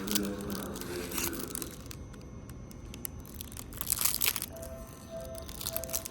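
Electronic vending machine tune: a short pitched melody fading out, then from about four and a half seconds a repeating two-note electronic beep. A few sharp clicks and handling rustles come in between.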